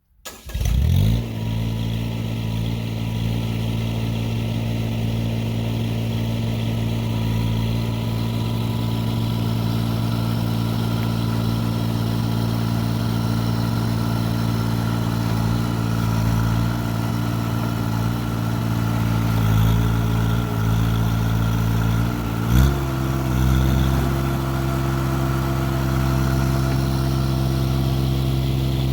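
Tractor engine running steadily, coming up to speed right at the start; about 22 seconds in the revs rise quickly and hold at the higher speed while the box blade's teeth dig at a buried metal plate.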